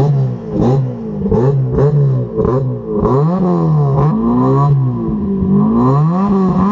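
Honda S2000's four-cylinder engine revved again and again through a home-built exhaust with new headers: a quick run of short throttle blips, then a few slower revs up and back down.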